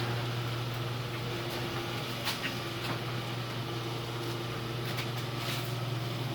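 Electric garage door opener motor running with a steady hum while the door travels, cutting off just after the end, with a few light clicks along the way.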